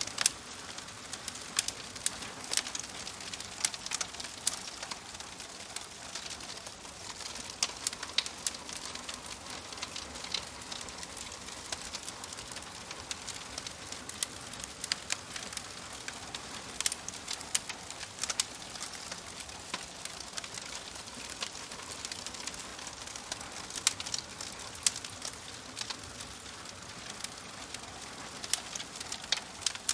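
Fireplace fire crackling, with irregular sharp pops and snaps over a soft steady hiss.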